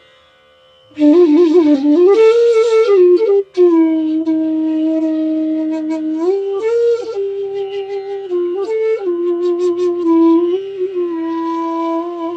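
Bansuri, the North Indian bamboo flute, playing a slow melody. After a pause of about a second, a breathy phrase with quick ornaments rises and falls, then long held notes follow, joined by slides.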